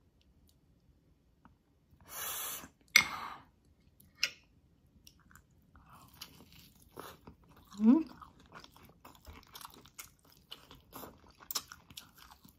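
Close-miked eating of a braised beef rib held in the hands. There are two loud wet bursts of biting and tearing about two and three seconds in, then a long run of soft, quick chewing and smacking.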